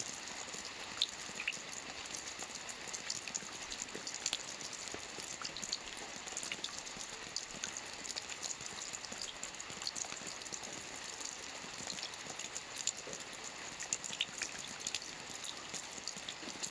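Soft rain falling on a roof: a steady patter with many small, scattered drop ticks and no change in intensity.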